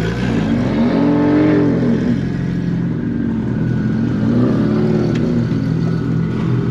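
Car engines running, with revs rising and falling a few times over a steady low engine drone.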